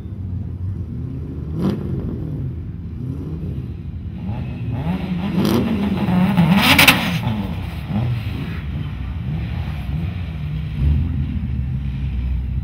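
Turbocharged Mitsubishi Evo VIII with a built 2.0-litre four-cylinder and FP Black turbo, idling and being blipped as it rolls up to the start line, its revs rising and falling. There are short, sharp bursts of noise about a second and a half in and twice around the middle, the last of them the loudest, with a second car's engine running alongside.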